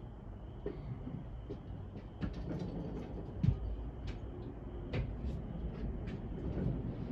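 Scattered clicks and knocks of tools and metal engine parts being handled during a teardown, with one louder knock about three and a half seconds in, over a steady low background hum.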